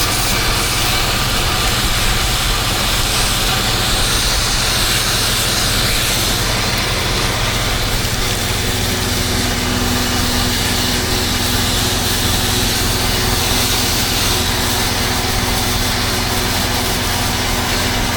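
Pressure washer engine running steadily under a continuous hiss of water spray. A steady hum comes in about halfway through.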